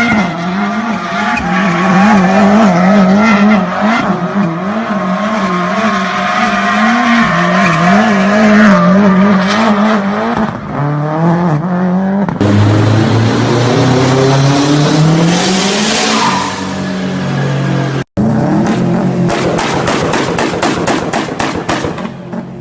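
Turbocharged performance car engines driven hard, in clips cut together: first an engine at high revs with its pitch rising and falling as the car is pushed, then an engine accelerating with steadily rising revs, then a run of rapid pops.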